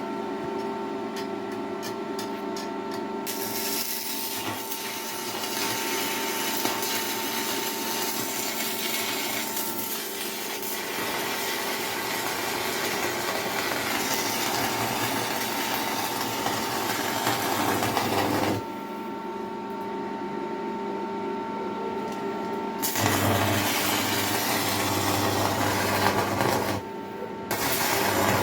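A steady machine hum made of several held tones. Long stretches of harsh, even noise are laid over it, starting about four seconds in, stopping at about eighteen seconds, and returning near the end.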